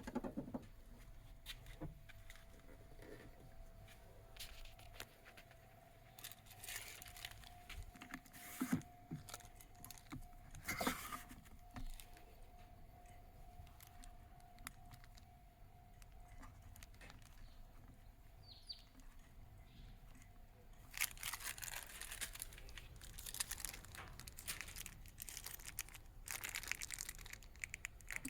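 Small electric ventilation fan running with a faint steady whine, among scattered clicks, rattles and rustles of handling. The whine stops about three quarters of the way through, and the handling noise gets busier after that.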